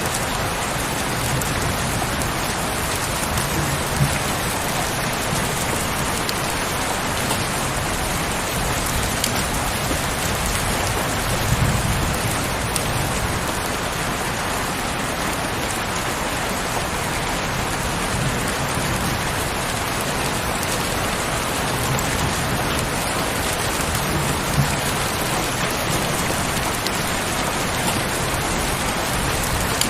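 Heavy rain falling steadily, with a few brief louder drop hits now and then.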